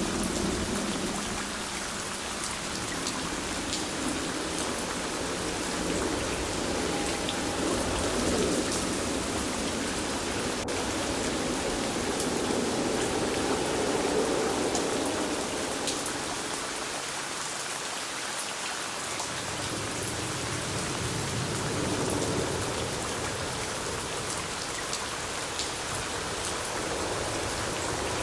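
Steady rain with scattered drops ticking on a surface, over a low rumble that swells and fades.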